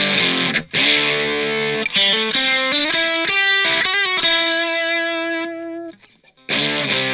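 Electric guitar with its split humbucker and middle pickup, played through a Fender Santa Ana Overdrive pedal: overdriven strummed chords, then a short single-note run ending on a held note. The note rings out and stops about six seconds in, and chords start again near the end.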